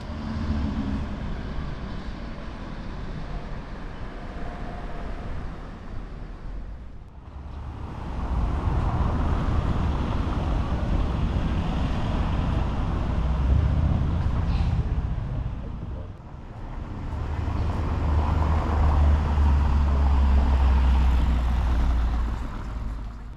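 Outdoor street ambience with road traffic: a steady low rumble of passing vehicles that swells and fades, broken by two short drops.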